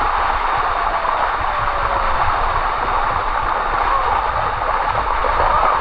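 Steady rush of water cascading down a limestone waterfall, with a low rumble underneath.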